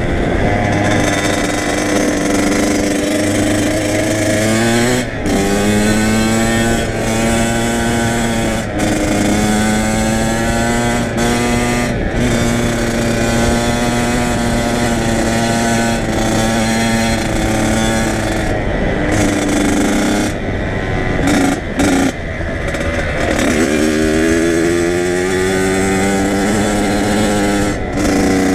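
Kawasaki KX100 two-stroke dirt bike engine running on the move, its pitch climbing sharply about four seconds in and again near the end, holding steady between, with a few brief throttle breaks past the middle.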